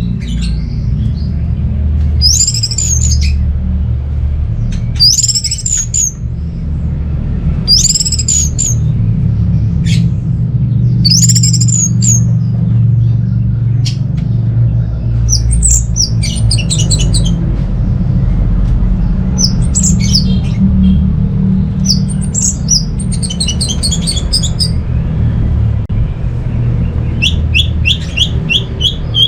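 Orange-headed thrush calling: arched high notes repeated about every three seconds, then fast strings of short repeated notes in the second half, over a steady low rumble.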